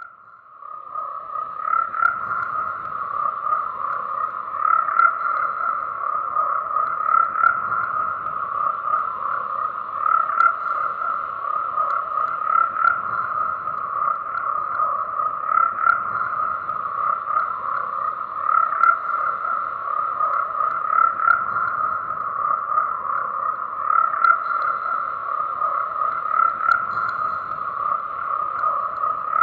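A dense chorus of frogs croaking continuously, many overlapping calls, with louder swells every two or three seconds. It fades in from a brief dip over the first couple of seconds.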